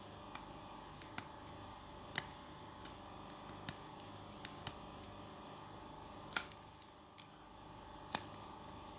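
Fingers peeling the thin skin off a bitter kola nut: scattered small, sharp clicks and crackles, the loudest about six seconds in.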